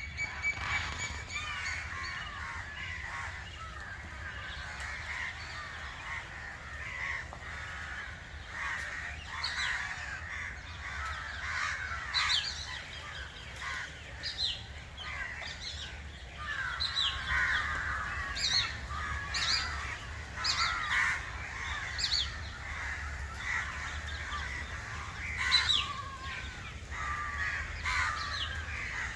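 Many birds calling and chirping over one another, with a low steady hum beneath.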